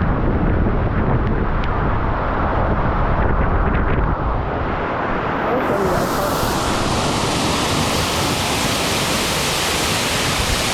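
Waterfall rushing in a steady roar, with wind rumbling on the microphone. About halfway through the sound turns brighter and hissier.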